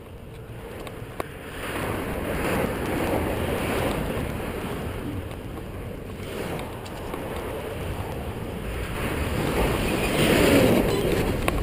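Wind rushing over the action camera's microphone while cycling, rising and falling in gusts and loudest near the end.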